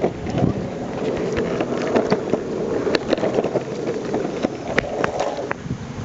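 Longboard wheels rolling over pavement: a steady rumble with scattered clicks and ticks throughout.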